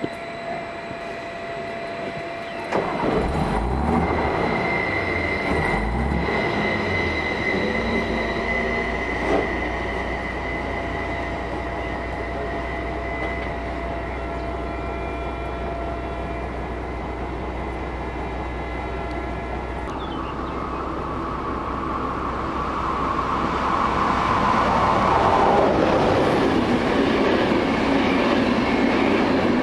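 Meridian electric multiple units (Stadler FLIRT) running at the station: a low electric-motor hum with pitch glides, and steady high whistle tones. About twenty seconds in this gives way to a red Railjet express passing at speed, a rising rush of wheel and air noise that is loudest near the end.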